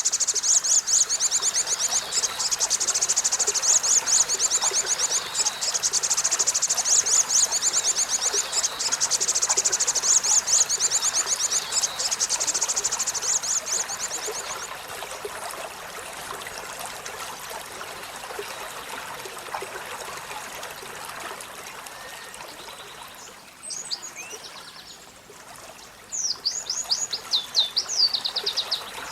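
Olive-backed sunbird singing a fast, high trill of rapidly repeated notes that stops about halfway through. A steady sound of running water follows, with a few short calls and another brief high trill near the end.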